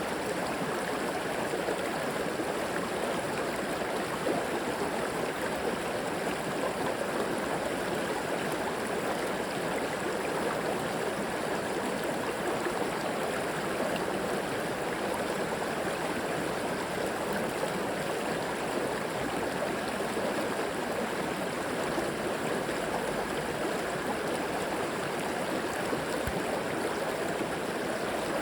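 River water flowing steadily over rocks, an even rushing and gurgling with no breaks.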